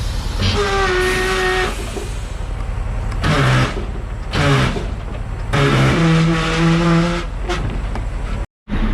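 Heavy diesel logging equipment running with a steady low rumble, with several short pitched whines rising over it at intervals. The sound cuts out briefly near the end.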